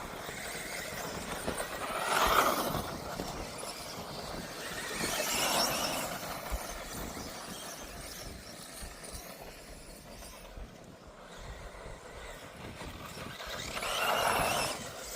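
1/10th-scale electric two-wheel-drive off-road RC buggies running on a grass track, with a whirring whine that swells three times as cars pass close.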